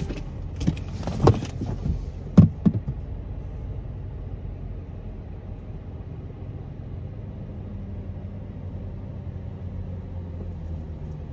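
Car engine idling steadily inside the cabin, with a few knocks in the first three seconds.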